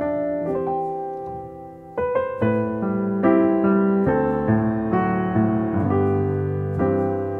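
Background piano music: slow, sustained chords and notes, thinning out briefly and then swelling into fuller chords about two seconds in.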